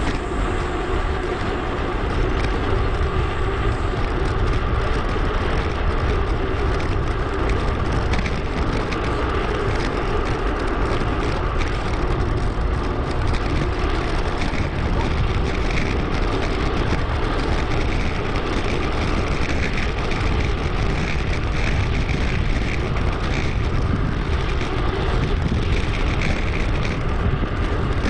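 Steady wind and rolling noise from a moving bicycle, rushing over the action camera's microphone.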